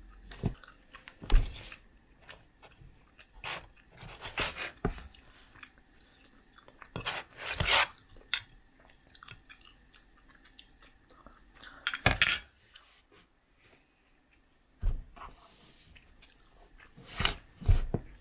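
Eating sounds: scattered crunches and clicks at irregular intervals, with quiet stretches between.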